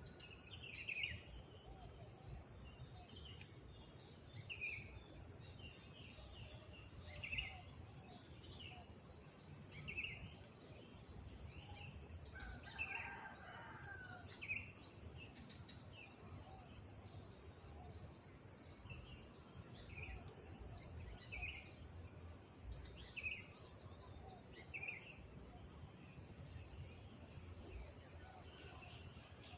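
Faint countryside dawn chorus: a bird repeating a short call every second or two over a steady, high chirring of insects, with a low background rumble.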